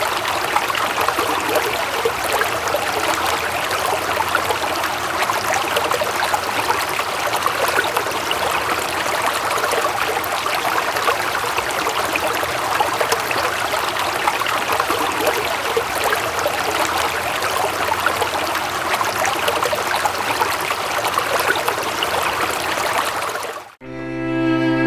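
Steady rushing and splashing of a flowing stream, with no pauses or changes, cutting off abruptly about a second before the end as slow, sad bowed-string music begins.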